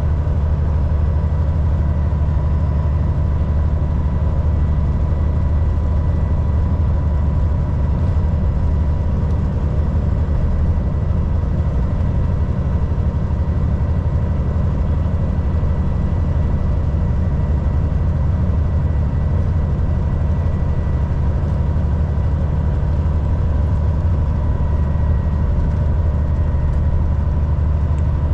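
Volvo VNL 760 semi truck's diesel engine and road noise while cruising on the highway: a steady, unbroken low drone with a faint steady whine above it.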